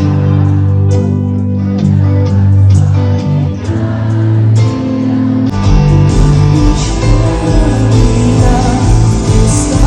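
Live pop song played by a band, with singing and guitar. About five and a half seconds in, the band comes in fuller and louder.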